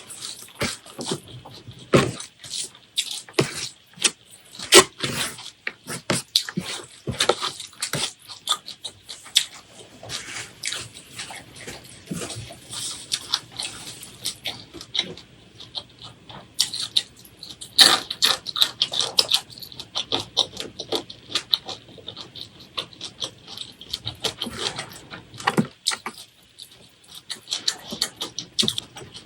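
Close-miked mouth sounds of eating: wet chewing and lip smacks, heard as a steady stream of quick, irregular clicks.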